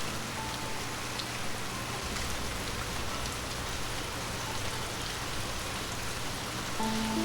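Steady rain falling, an even hiss of drops with a few faint ticks. Soft sustained music notes come in near the end.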